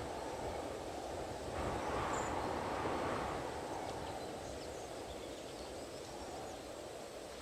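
Strong wind blowing, swelling in a gust about two seconds in and easing off toward the end.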